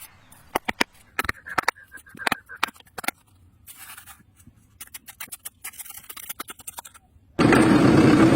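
Irregular sharp clicks and short scrapes of small handwork, with faint hissy rustles between them. Loud music cuts in about seven seconds in.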